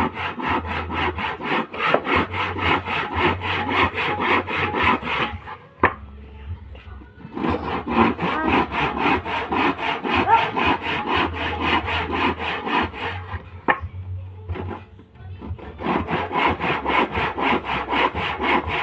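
Manual hand saw worked back and forth against wood in quick, even strokes. The strokes stop twice for a second or two, roughly a third and two-thirds of the way through, then resume.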